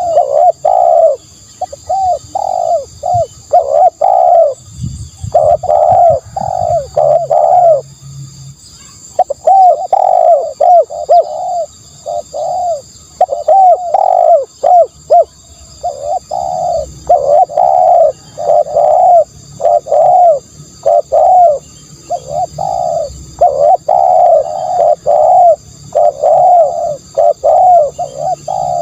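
Spotted dove cooing: quick runs of repeated coos, one after another, with a short break about eight seconds in. It is a decoy-call recording used to lure doves.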